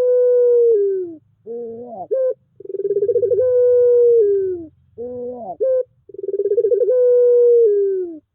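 Puter pelung dove giving its long drawn-out coo over and over: each call is a short bent note followed by a long held note that begins with a fast flutter and sags in pitch at the end, repeating about every three seconds.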